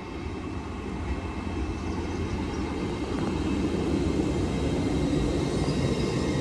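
Class 802 passenger train pulling into the station, its rumble growing steadily louder as it approaches, with faint steady whining tones coming in near the end.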